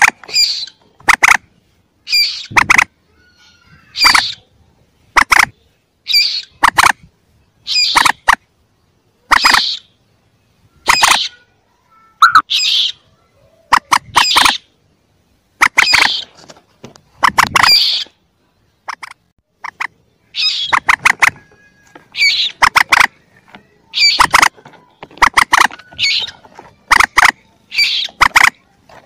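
Recorded calls of a young common moorhen (mandar): short sharp notes repeated about once a second, often two or three in quick succession, with silence between. It is a lure recording used to call the birds in.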